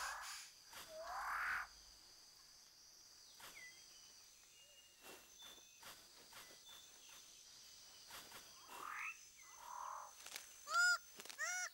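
Birds of paradise calling in rainforest: rising calls at the start, then two loud, arched, nasal calls with rich overtones near the end. A steady high insect whine and scattered clicks run underneath.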